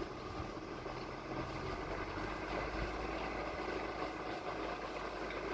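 Steady vehicle engine noise, running evenly with low rumble.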